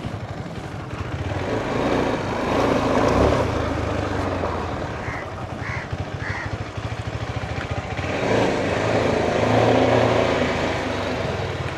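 Motorcycle engine running at low speed, a steady low rumble under a rushing noise that swells twice. Three short faint high notes sound around the middle.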